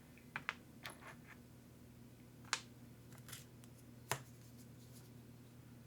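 Small RC truggy parts clicking and tapping as they are picked up and set down: a few light clicks, with two sharper ones about two and a half and four seconds in, over a steady low hum.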